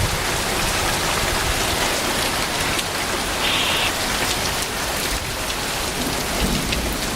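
Heavy rain pouring steadily in a thunderstorm, an even hiss with scattered drop clicks.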